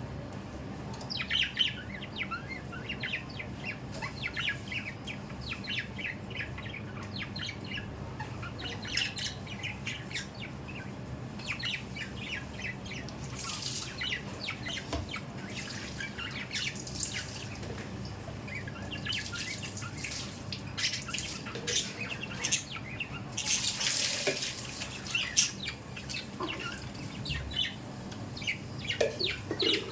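Budgerigars chattering and chirping in quick, high, short notes, with a few brief bursts of noise mixed in.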